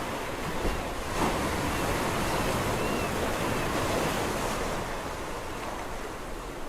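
Sea waves breaking and washing on a shore, a steady surf that swells to a peak partway through and then eases off.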